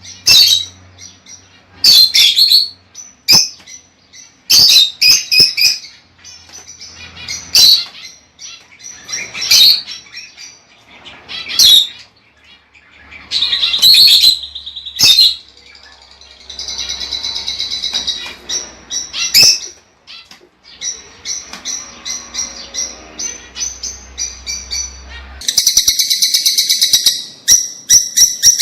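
Lovebirds calling: loud, sharp high chirps every second or two, broken by stretches of fast, buzzy chatter, the densest near the end.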